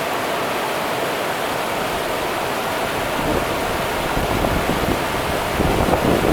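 Rio Grande river water rushing steadily. Low, uneven rumbling swells join in from about halfway through and are strongest near the end.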